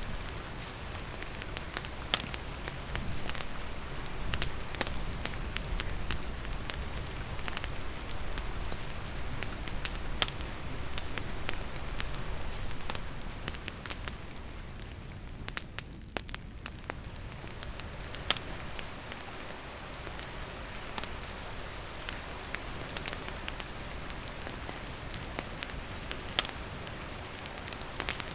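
Steady rain falling on the surroundings mixed with a wood campfire crackling, with frequent sharp pops and snaps over the hiss of the rain.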